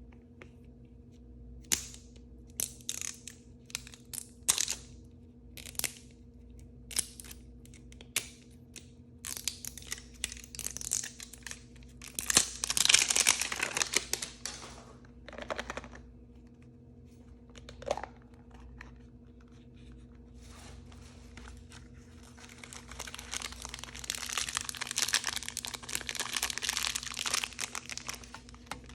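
Plastic blind-bag packaging being handled and torn open by hand: scattered rustles and small clicks at first, a loud tearing crinkle a little under halfway through, then a long stretch of steady crinkling near the end.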